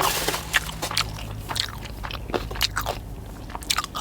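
A person chewing a mouthful of sushi close to the microphone, with irregular mouth clicks and crunches.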